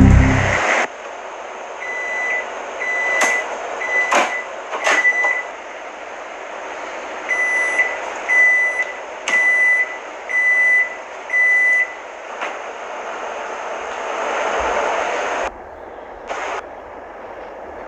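Microwave oven running with a steady hum. A few seconds in come several keypad beeps with button clicks, and about seven seconds in a run of five evenly spaced beeps. The hum cuts off suddenly near the end, followed by a single click.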